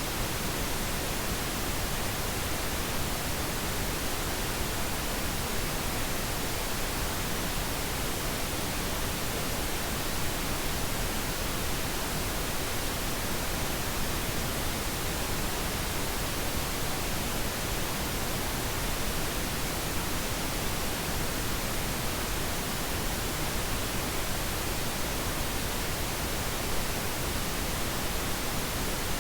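Steady pink noise: an even, unchanging hiss spread across all pitches, with no other sounds.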